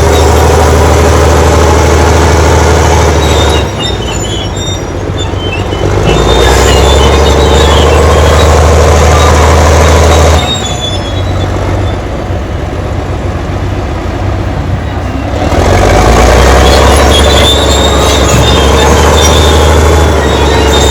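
Crawler bulldozer working: its diesel engine runs loud under load, with track clatter and squeal. The engine note swells and eases in long stretches every few seconds as the machine works.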